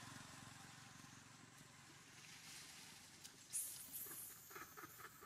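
A faint engine hum fading away over the first couple of seconds. Then a brief high-pitched sound about three and a half seconds in, followed by scattered light clicks and patter.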